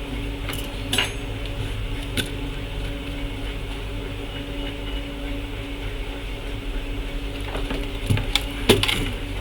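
Steady electrical hum with a few light clicks and taps, small tools or parts being handled on a workbench.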